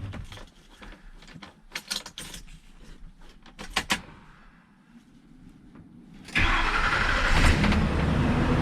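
A few clicks and knocks, then about six seconds in the 2007 Ford F250's engine starts at once and runs steadily. The new starter has cured the no-crank fault.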